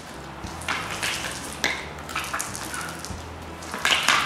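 Paint roller rolling through freshly spread wet floor epoxy on concrete: a sticky, crackling swish that swells with each stroke. Faint background music runs underneath.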